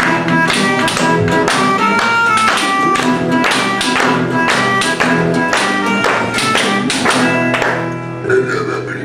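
A band playing music with a steady beat of sharp, repeated chords. Near the end a wavering, sliding pitched sound comes in over it.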